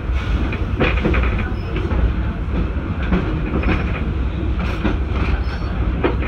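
Steam-hauled passenger train rolling along, heard from the car just behind the locomotive: a steady rumble of wheels on track with irregular clicks and knocks.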